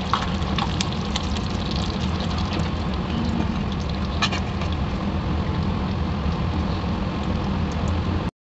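Food frying in a hot pan: a steady sizzle with scattered crackles and pops over a low hum.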